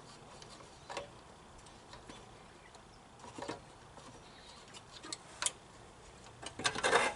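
Scattered light clicks and knocks of a Snapper mower's fuel tank being worked loose and lifted off, with a louder cluster of clatter near the end.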